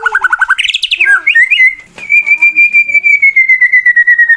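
Male white-rumped shama (murai batu) singing its aggressive fighting song, the challenge to a rival male: a burst of rapid repeated notes, a few quick rising whistles, then from about two seconds in a long rapid trill that slowly falls in pitch.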